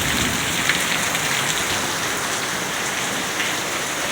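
Heavy rain pouring down during a thunderstorm, a steady dense hiss with scattered small drop ticks.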